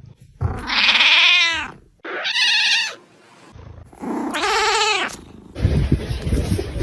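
A cat meowing three times in long, drawn-out calls that rise and fall in pitch. Near the end comes a rough scuffling noise.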